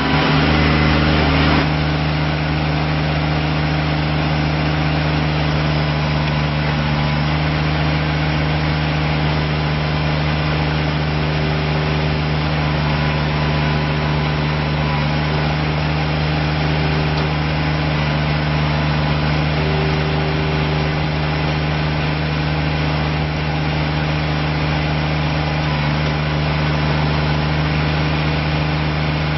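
Kubota BX25D compact tractor's three-cylinder diesel engine idling steadily, a little louder for the first second and a half before settling.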